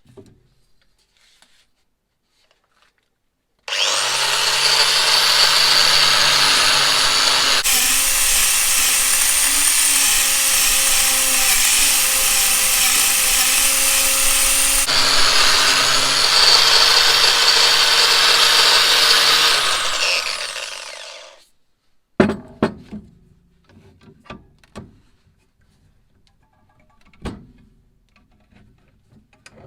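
An electric power tool runs steadily for about seventeen seconds, its sound turning noisier for several seconds in the middle, then winds down with a falling pitch. A few sharp knocks and clicks follow.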